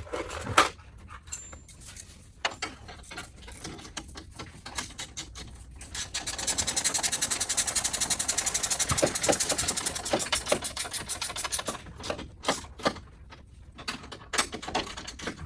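Scattered clicks and knocks of parts being handled. About six seconds in, a handheld power tool runs a bolt down with a fast, even rattle, then stops about six seconds later.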